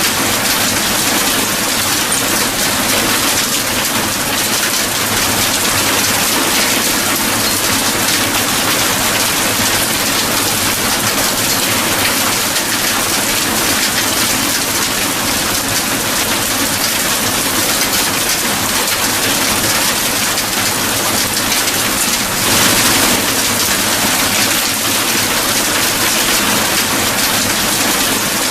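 Steady heavy rainfall, a dense even hiss of drops, swelling briefly about two-thirds of the way through.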